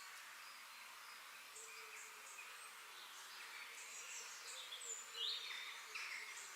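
Outdoor nature ambience of several birds giving short chirps and whistles, with a louder downward-sliding call about five seconds in. Underneath is a faint steady hiss of insects.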